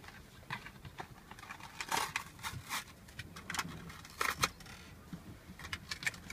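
Toy packaging being handled and opened by hand: irregular crinkles, rustles and small plastic clicks.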